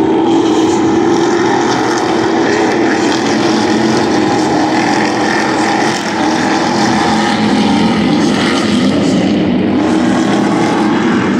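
Racing stadium trucks' engines running loud and steady, several engine notes overlapping and drifting slightly up and down in pitch.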